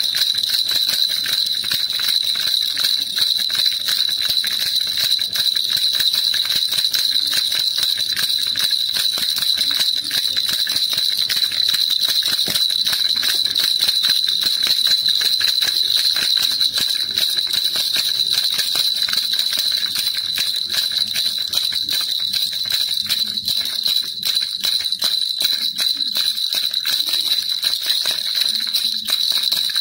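Baby rattle shaken continuously in a fast, even rhythm: a bright, jingly rattling with no pauses.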